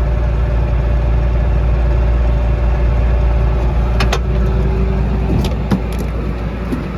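John Deere 6600 combine running with a steady low engine hum. About five seconds in, one steady tone in the hum stops, with a few light clicks around it.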